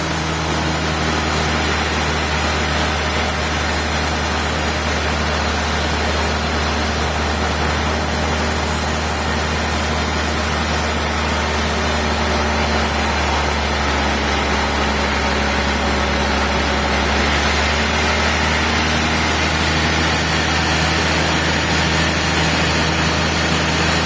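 Sawmill machinery running steadily: a constant low engine or motor hum with even mechanical noise, unchanging throughout.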